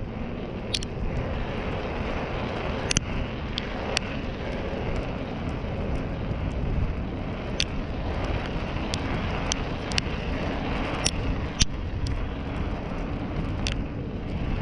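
Wind rushing over the microphone and road noise from an e-bike being ridden along a road, with a dozen or so sharp clicks or rattles at irregular moments.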